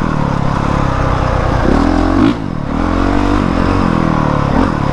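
Honda CRF450R single-cylinder four-stroke dirt bike engine under throttle while riding, its pitch climbing about two seconds in and then dropping sharply as the throttle is rolled off, and rising again near the end.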